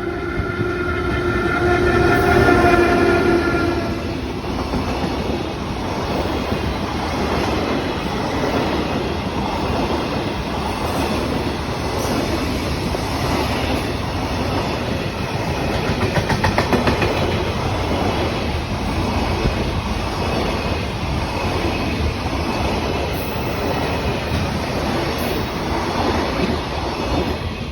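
An EF81 electric locomotive passes hauling a freight train. For the first few seconds its traction motors growl with a steady pitched tone. After that the wagons roll by in a long, even rumble, with wheels clacking over the rail joints.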